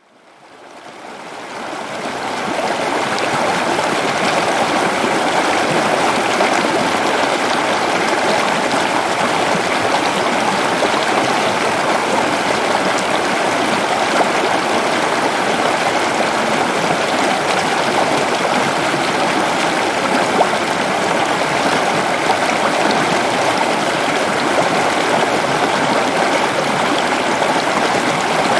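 Waterfall rushing steadily in a dense, even roar of falling water, fading in over the first couple of seconds.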